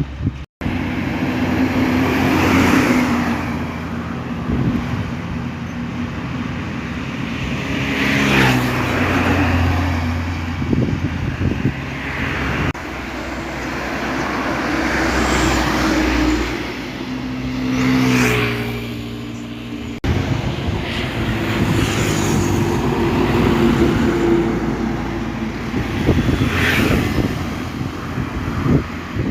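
Isuzu Giga tanker trucks driving past one after another in a convoy, diesel engines running. The engine pitch drops twice as trucks go by.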